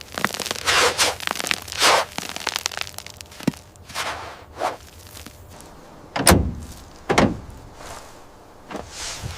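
Irregular scraping and rustling with scattered knocks, and two heavier thuds about six and seven seconds in.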